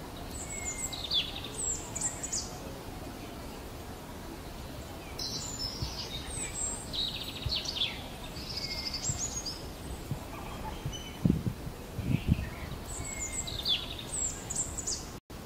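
Birds chirping outdoors in several short bouts of quick, high, downward-sweeping chirps over a steady background hiss. Two dull low thumps come near the end.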